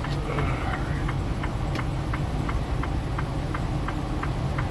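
Semi-truck heard from inside the cab while driving: a steady low engine and road rumble, with an even clicking about three times a second.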